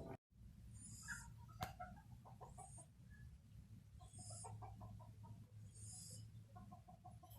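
Faint high bird chirps, one every one and a half to two seconds, with short runs of soft quick pulses between them over a low steady hum.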